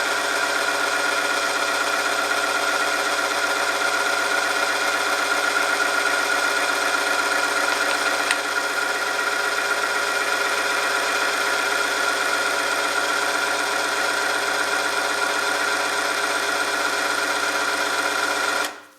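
Oil film strength testing machine running under load with a steady, high-pitched friction whine over a motor hum, a test sample rubbing against its rotating part in the oil. About eighteen and a half seconds in it cuts off suddenly as the machine stops.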